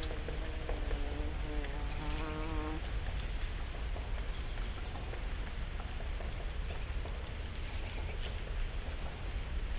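Quiet forest ambience: a flying insect buzzes with a slightly wavering pitch for about the first three seconds. Small songbirds follow with a scatter of faint, very high, thin calls.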